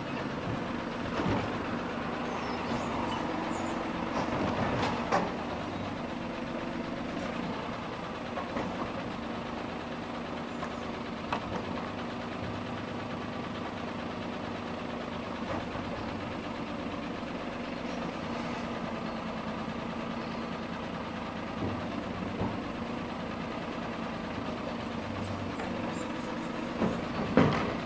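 A recycling truck's diesel engine running steadily, with a few sharp clanks scattered through it and a louder one near the end.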